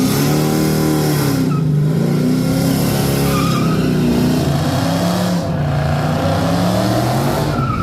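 Dodge Charger engine revving hard, with its pitch climbing and then held high and wavering, while its tyres squeal and hiss against the track.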